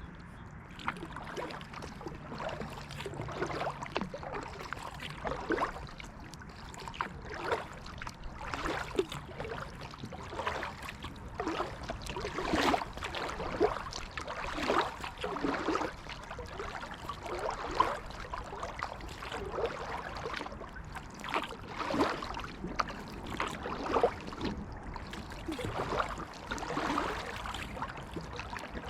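Kayak paddle blades dipping and splashing in the water, a stroke every second or two.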